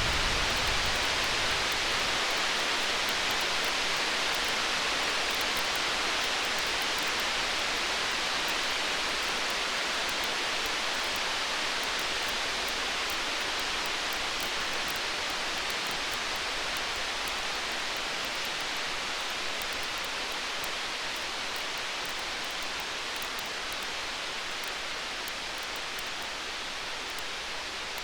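A distant thunder rumble dies away in the first second. It leaves a steady rain-like hiss that slowly fades, flecked with faint, tiny crackles from a campfire.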